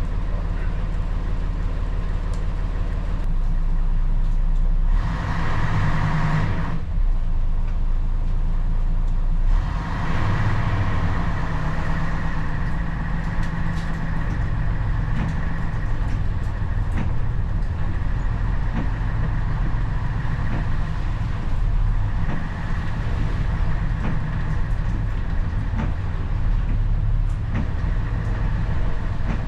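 Heavy diesel engine of a Scania BR111 bus running steadily, with a burst of hissing noise about five seconds in.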